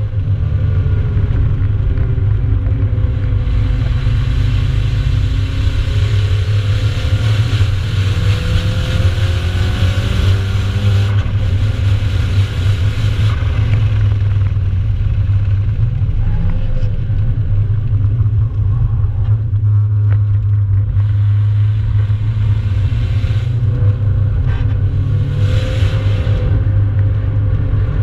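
Nissan 200SX's turbocharged four-cylinder engine, heard from inside the cabin while the car is driven hard on track. A steady loud low drone runs under engine notes that climb and fall as the revs change.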